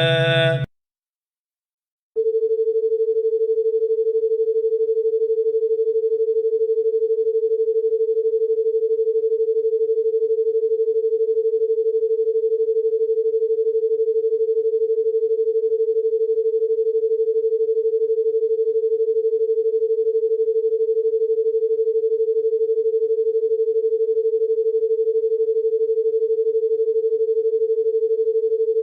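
A single steady electronic tone, mid-pitched and unwavering like a dial tone, starting about two seconds in after a short silence and holding without change. It is a sustained 'healing frequency' tone.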